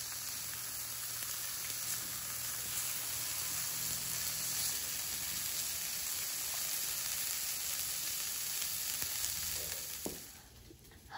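Diced bacon and green peas sizzling steadily in a frying pan, stirred with a silicone spatula that adds a few light scrapes. The sizzle fades out about ten seconds in.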